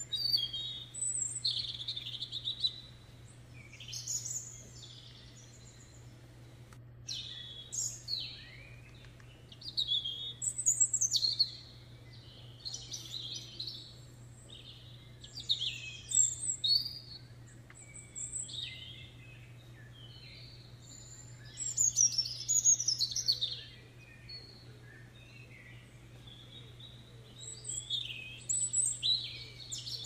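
Songbirds singing, with bursts of quick chirps and sliding whistled notes in phrases every couple of seconds, over a faint steady low hum.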